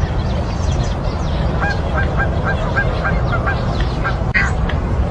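A bird calling: a run of about eight short, evenly spaced notes at roughly four a second, then one louder call near the end, over a steady low rumble.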